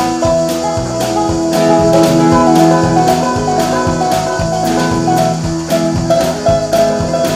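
Country band playing an instrumental break with no vocals: a drum kit keeps a steady beat, about two hits a second, under long held melody notes.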